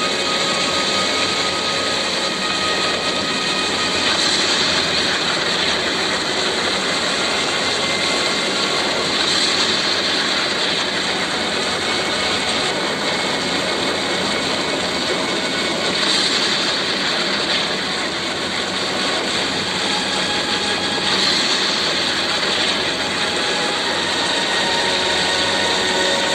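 Steady, loud roar of storm wind and rain, surging a little every few seconds.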